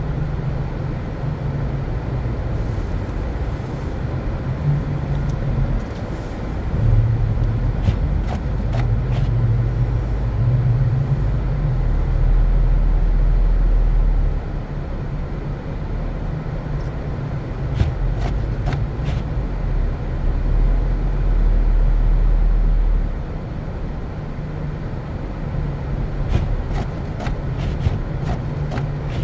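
Car driving on snow-covered streets: a steady low rumble of engine and tyres that grows louder for several seconds twice, with a few faint scattered clicks.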